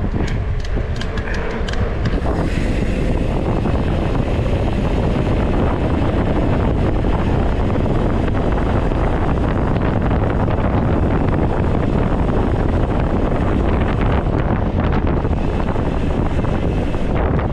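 Heavy wind buffeting on an action camera's microphone, mixed with tyre and trail rumble from a mountain bike ridden downhill at high speed. A rapid run of sharp clicks comes in the first two seconds, then the rushing noise holds steady.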